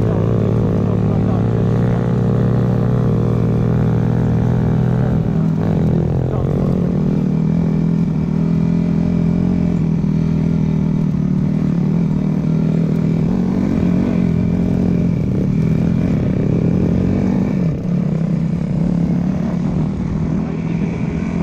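Dirt bike engine running steadily, its note changing and turning rougher about five seconds in.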